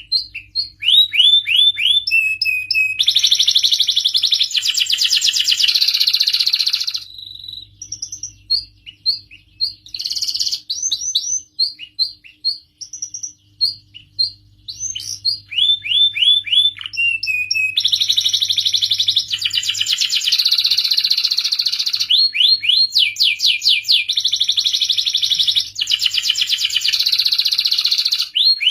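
Domestic canary singing a long song of fast rattling trills and rolls, strings of quick down-slurred whistles, and single chirps. The song turns sparser, with separate notes, for about ten seconds in the middle, then returns to rapid trills.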